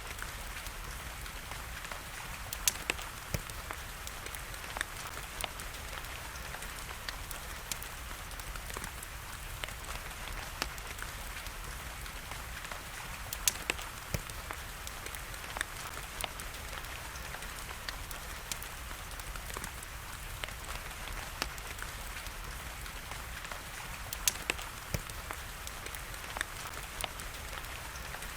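Steady hiss of rain mixed with a wood fire crackling, with scattered sharp pops and a few louder snaps.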